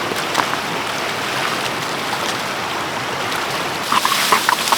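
Steady rushing of running water, with a few light clicks or knocks near the end.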